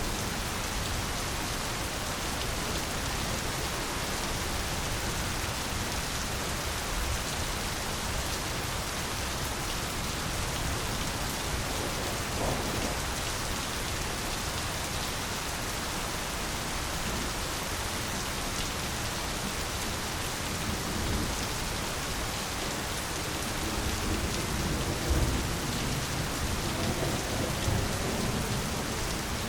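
Steady, even rain falling continuously, with low rumbles of thunder swelling up near the end.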